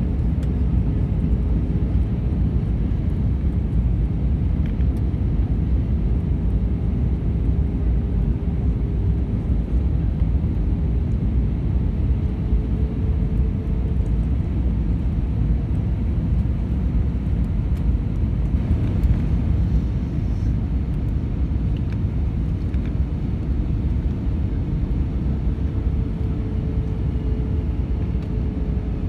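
Steady cabin noise inside an Airbus A319 airliner: a low, even rumble of engines and airflow with a faint steady hum above it.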